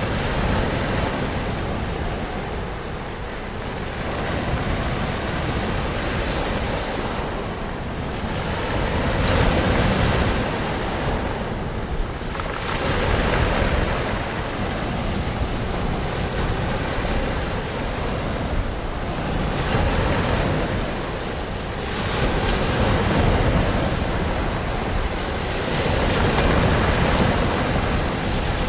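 Ocean surf: waves breaking and washing in without pause, swelling and easing every few seconds.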